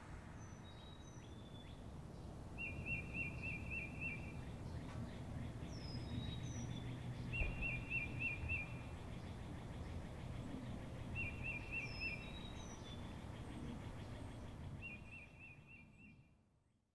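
Birds singing: a short trilled phrase repeated about every four seconds, with thin high chirps between, over a low steady rumble of outdoor noise. It all fades out near the end.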